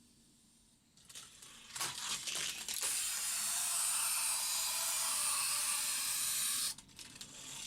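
Die-cast Hot Wheels car running down a plastic Hot Wheels track: a few clicks and rattles as it sets off, then a steady hissing rush of wheels on plastic track for about four seconds that cuts off suddenly.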